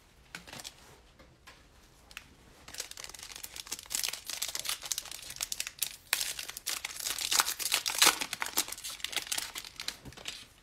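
Foil trading-card pack wrapper being torn open and crinkled by hand, a dense crackling that starts about three seconds in and runs until just before the end.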